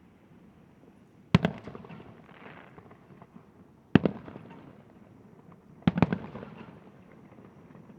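Fireworks bursting: three loud bangs about two seconds apart, each followed by a short crackle as it dies away.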